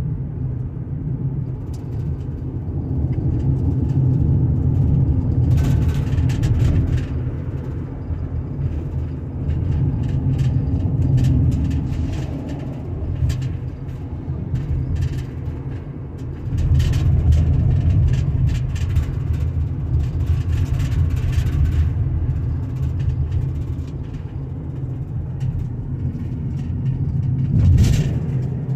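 Car driving on a road, heard from inside the cabin: a steady low rumble of engine and tyre noise, with a few faint short knocks.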